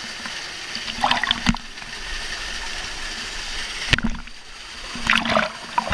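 Steady rush of waterfall water, with some splashing and two sharp knocks, about a second and a half and four seconds in.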